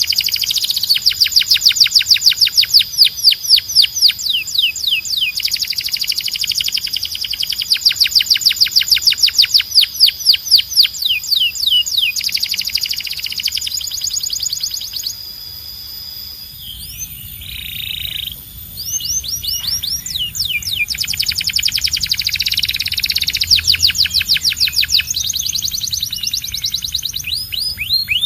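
Domestic canary singing long, fast trills of rapidly repeated notes, phrase after phrase with short breaks, dropping to a quieter passage about halfway through.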